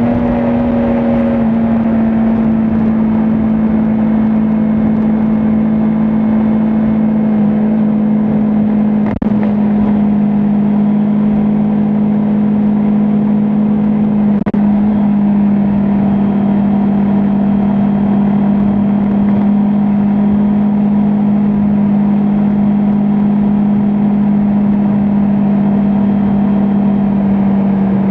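Kawasaki Ninja 400's parallel-twin engine cruising at steady revs at expressway speed, with wind and road noise. The engine note eases slightly lower about a second and a half in, and again near the end.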